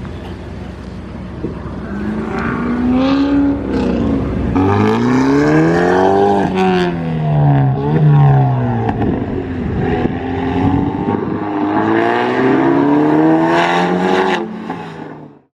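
Car engine revving hard again and again, its pitch climbing and dropping several times.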